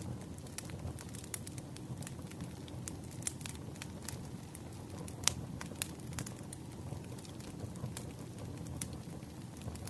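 Campfire burning: wood crackling and popping in irregular sharp snaps over a steady low rumble of the flames, with one louder pop about five seconds in.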